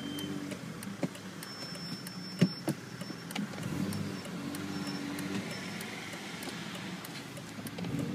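BMW E46 M3's straight-six engine idling high at about 2,000 rpm while its SMG gearbox is stuck in gear, with a sharp click or clunk about two and a half seconds in. The hazard-light relay ticks steadily throughout.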